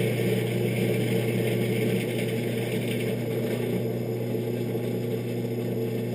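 Electric drill motor running steadily while boring a hole through a truck door handle; its tone shifts and drops slightly about two seconds in.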